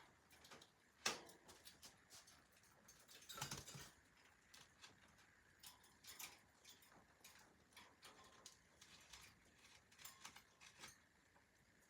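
Faint, scattered small clicks and scratches from a cockatiel moving about, with a short rustle about three and a half seconds in.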